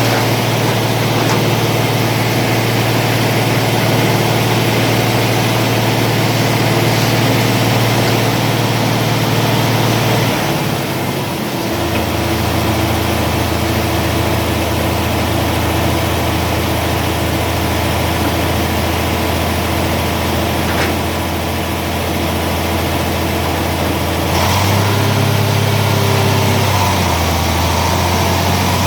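Heavy diesel engine of earthmoving machinery running steadily; its speed drops about ten seconds in and picks up again a few seconds before the end.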